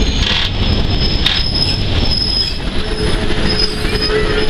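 Steam-hauled train of open passenger cars running through a curve: a steady loud rumble of wheels on rail, with thin high squealing from the wheel flanges. A steady lower tone joins about three seconds in.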